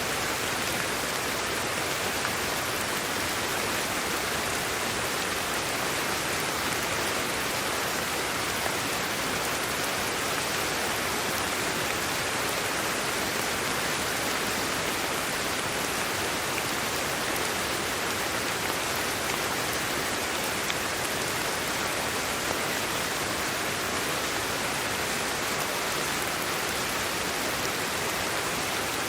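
Sleep-aid white noise: a steady, even hiss that does not change.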